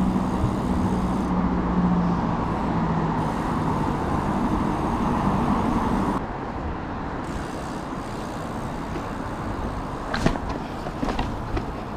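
Road traffic: a vehicle engine hums steadily over general traffic noise, then the sound drops off suddenly about six seconds in. A few sharp clicks come near the end.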